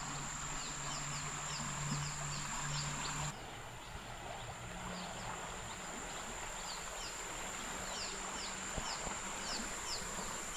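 Humid-weather insects droning in a steady high buzz, with short high chirps repeating about two or three times a second. A faint low hum runs underneath and stops about three seconds in.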